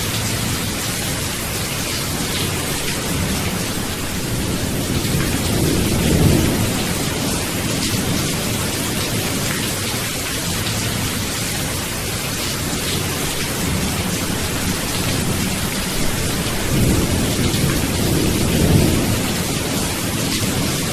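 Steady rain hissing, with low rolls of distant thunder swelling about six seconds in and again over the last few seconds.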